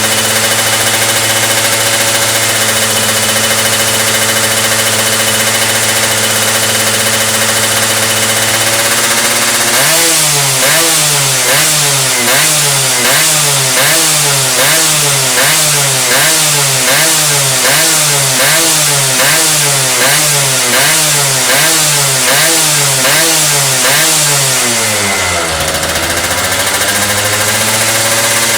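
Yamaha F1ZR two-stroke motorcycle engine idling, then blipped on the throttle in a long run of quick, evenly repeated revs, a bit more than one a second, before dropping back to a steady idle near the end.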